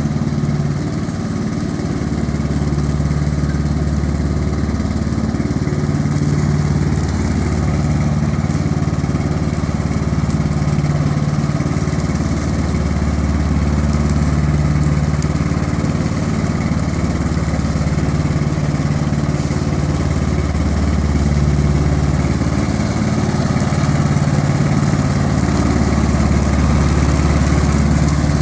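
Tractor engine running steadily, a low hum that swells and eases every few seconds.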